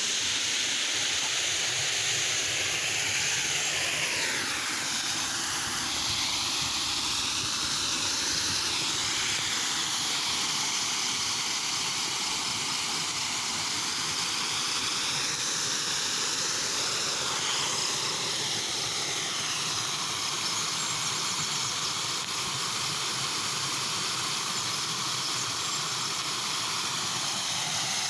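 Steady rushing hiss of flowing water, its tone slowly sweeping up and down in places.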